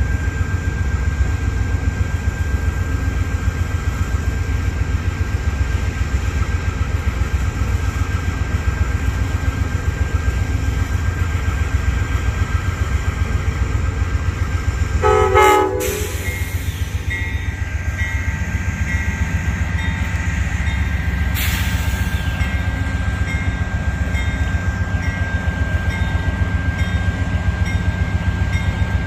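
Diesel-hauled Amtrak Pennsylvanian passenger train running with a steady low rumble, and a brief horn blast about halfway through.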